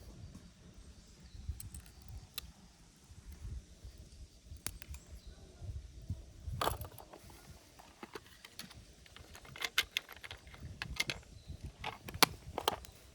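Irregular sharp clicks and light knocks, like small hard objects being handled, sparse at first and coming in quick clusters over the last few seconds.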